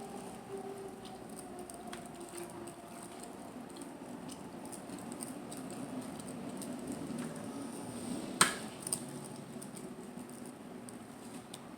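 Close-miked eating sounds: soft chewing and small wet mouth clicks. There is one sharp click a little over two-thirds of the way through.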